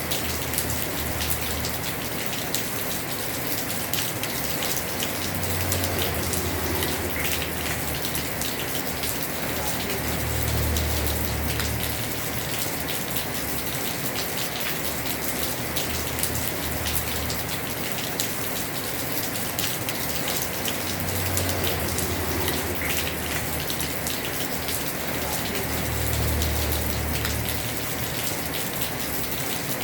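Heavy rain falling on a house roof: a steady hiss full of sharp drop ticks, with a low rumble that swells and fades about every five seconds.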